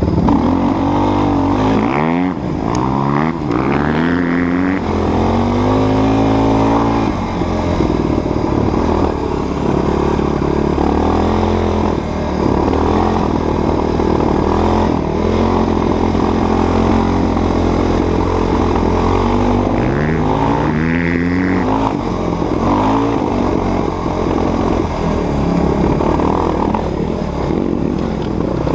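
Dirt bike engine running hard, its pitch repeatedly climbing and dropping as the throttle is worked and gears are changed, with quick runs of rising revs about two seconds in and again about two-thirds of the way through.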